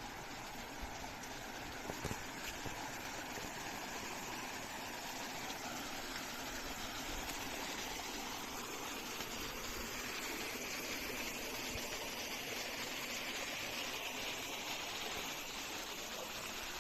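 Water of a stream flowing steadily, a continuous rushing hiss that grows a little louder about halfway through.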